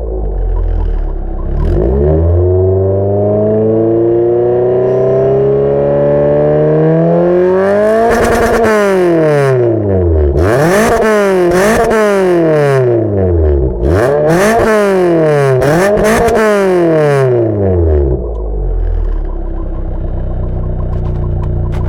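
Renault 19 16v's F7P 16-valve four-cylinder engine, exhaust with no catalytic converter and only the stock final muffler, revved while standing: a slow, steady climb to high revs, a drop, then about four quick blips up and down, before it settles back to idle.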